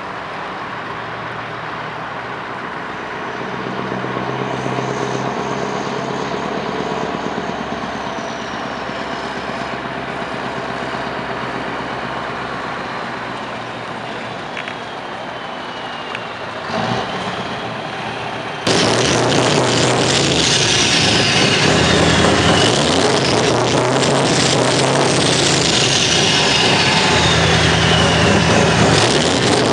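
Scania R620's 16-litre V8 diesel engine running steadily. About two-thirds of the way through, the sound cuts abruptly to much louder music with repeating falling sweeps.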